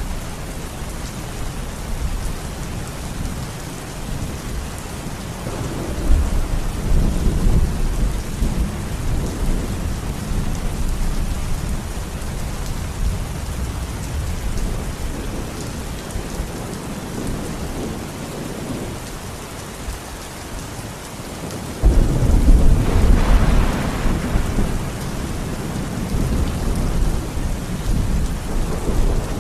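Steady rainfall with thunder. One roll builds about six seconds in and fades over several seconds. About twenty-two seconds in, a sudden, louder clap rumbles on for a few seconds.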